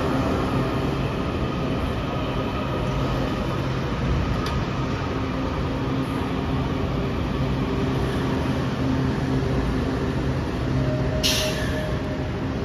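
Train running past with a steady rumble and a constant motor hum. A short hissing burst comes near the end.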